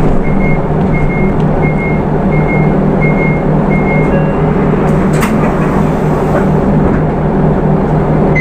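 Hino Rainbow II bus's Isuzu 4HK1 four-cylinder diesel running steadily, with a short high electronic beep repeating a little under twice a second through the first half. A single click comes about five seconds in.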